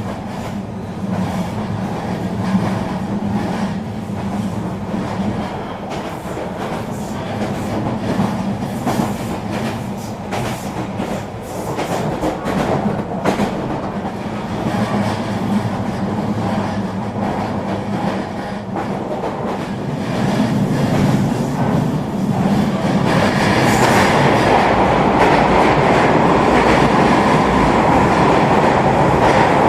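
Eurobahn regional electric train running on the rails, its wheels clicking over rail joints against a steady low hum. About two-thirds of the way through, the running noise builds into a louder, harsher rush and holds.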